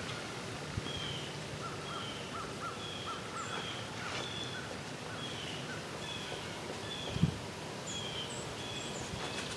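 Small birds calling in woodland: short chirps repeated every half second or so, with a quick run of lower notes about two seconds in. A single dull thump a little after seven seconds.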